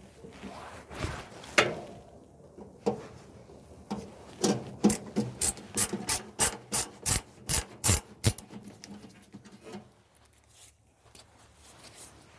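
Hand tool working on the dryer's cabinet during disassembly: a few scattered knocks, then a quick run of sharp scraping clicks at about three a second for several seconds.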